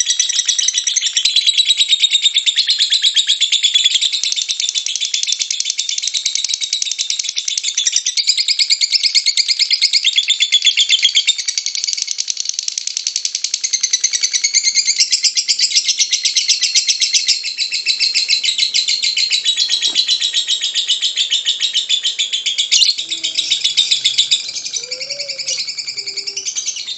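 Lovebird singing its long 'ngekek' chatter: a fast, continuous, high-pitched rattling trill with only brief breaks. Near the end a few lower, wavering sounds join in.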